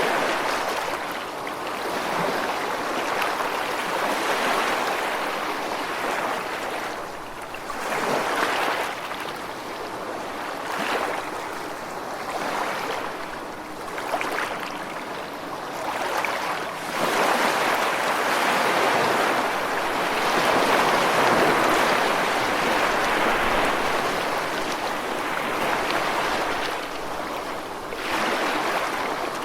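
Ocean waves breaking and washing on the shore in a continuous hiss that swells and ebbs every few seconds, with a long, louder surge in the second half.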